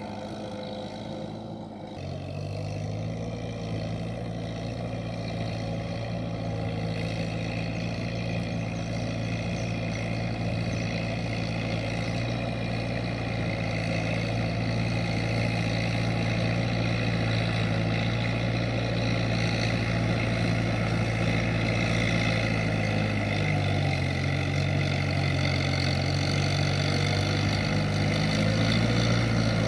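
Kubota M7040SU tractor's four-cylinder diesel engine running steadily while working the field, growing gradually louder. The engine note changes pitch about two seconds in and again a little past twenty seconds.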